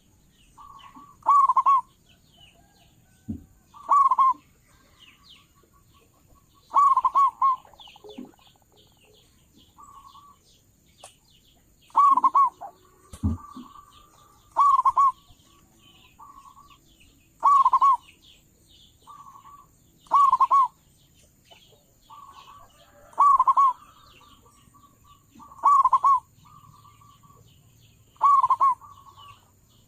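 Zebra dove cooing over and over, a loud rolling phrase about every two and a half to three seconds with softer short coos between. This is the call used to lure zebra doves. Faint chirps of small birds sound in the background.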